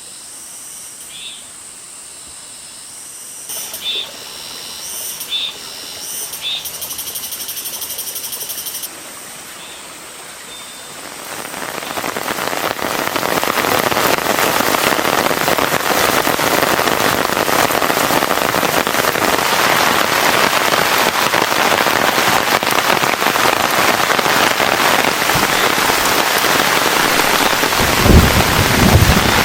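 Frogs and insects calling over a quiet background, then heavy rain starting about a third of the way in and quickly building to a steady, loud downpour. A low rumble comes near the end.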